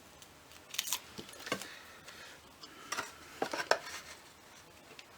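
Metal pokey tool picking and scraping at the backing of double-sided liner tape on card, with short clicks and scratches in two clusters, about a second in and again around three to four seconds in.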